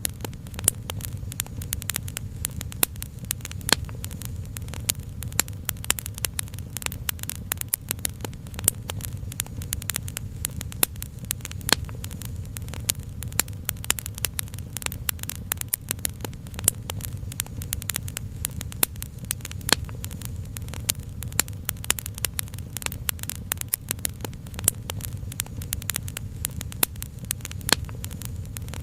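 Wood fire crackling: many quick, irregular pops and snaps over a steady low rumble.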